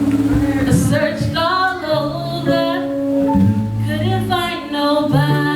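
Live gospel praise-and-worship music: a woman singing over sustained keyboard or bass notes.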